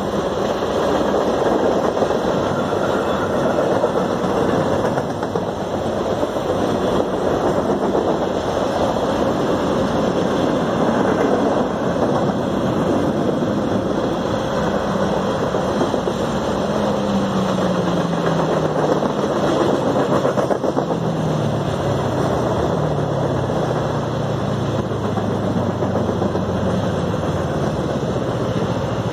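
Freight cars of a long mixed CN train (tank cars, covered hoppers and boxcars) rolling past, a steady rumble and clatter of wheels on rails. Through the second half a low hum falls gradually in pitch.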